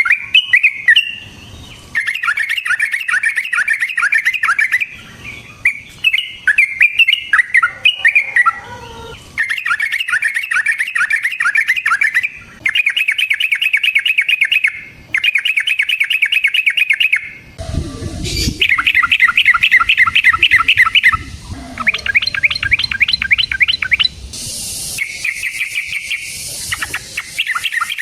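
Yellow-vented bulbul (trucukan) singing its fast rolling, chattering song: repeated bursts of rapid stuttered notes, each a couple of seconds long, with short pauses between. A brief low thud comes about two-thirds of the way through. This long 'ropel' song is used as a lure to provoke rival bulbuls into answering.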